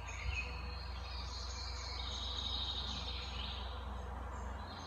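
Faint high chirping, like birds and insects, over a steady low hum.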